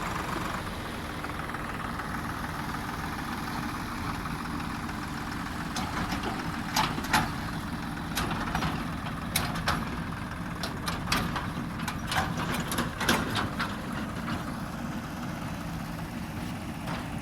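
Diesel engine of a JCB backhoe loader running steadily, with a run of sharp knocks and clanks through the middle.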